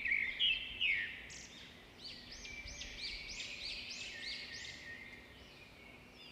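A bird singing: a couple of falling notes, then a quick run of repeated rising-and-falling notes, about three a second, that fades near the end.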